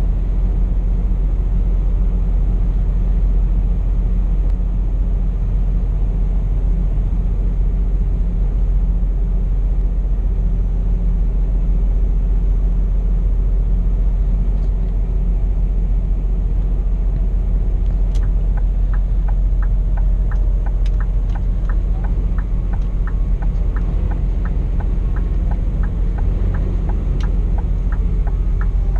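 Cab of a Scania P420 truck on the move: steady low diesel engine and road rumble. About two-thirds of the way in, a regular ticking starts at roughly two ticks a second and keeps going.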